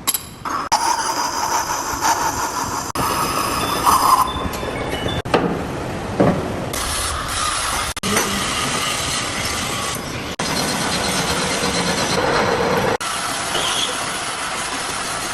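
Industrial metalworking machinery running with a high-pitched metallic squeal, in several stretches that change abruptly at cuts.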